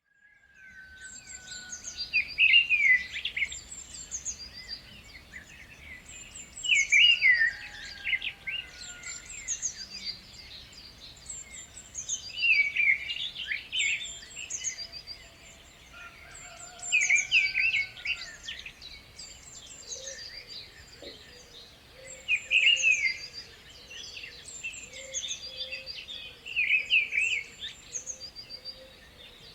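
Birds singing and chirping. A louder song phrase returns about every five seconds among higher, thinner chirps.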